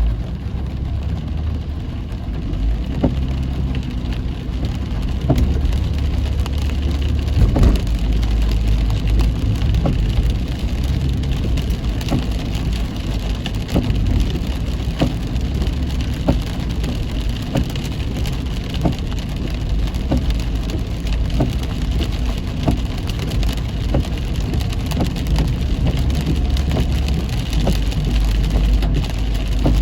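Heavy rain pelting a moving car: many scattered sharp drop hits over a steady low rumble of the car on the road.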